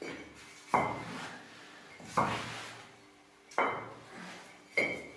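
Clay bricks being set down dry, one at a time, each landing with a sharp hard clack: four clacks at roughly even intervals of a little over a second.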